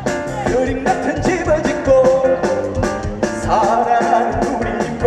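Live trot band music: a melody line over a fast, steady drum beat.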